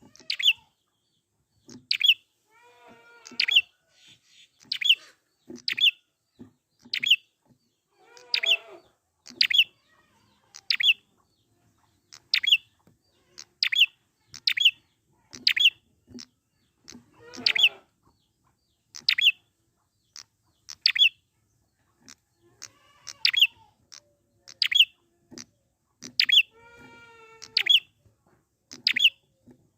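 Prinia (prenjak) calling in loud bursts: sharp, high, down-slurred notes repeated roughly once a second, with quieter chattering calls in between a few times.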